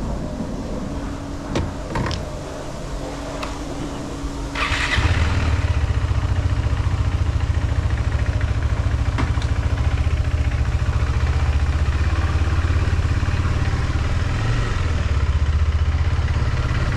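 Motorcycle engine starting about four and a half seconds in, after a few short clicks, then idling steadily with a low, even pulse.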